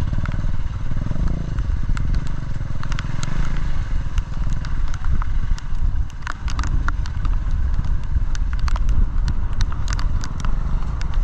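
Single-cylinder dual-sport motorcycle engine running steadily while riding a rough trail, with many short clicks and rattles scattered throughout.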